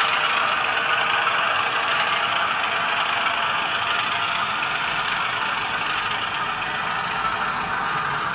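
HO-scale model freight train running steadily around the layout, with diesel engine sound from its DCC sound decoder.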